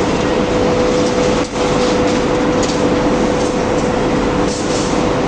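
Machinery of a steel reinforcing-bar rolling mill running: a loud, steady industrial din with a constant hum, dipping briefly about one and a half seconds in.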